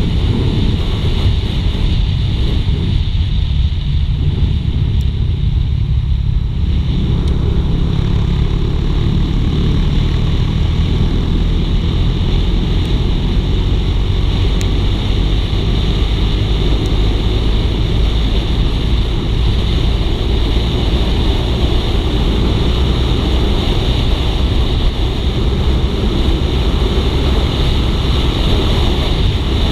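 Suzuki GSX-R150's single-cylinder engine running steadily at riding speed, mixed with wind rushing over the microphone.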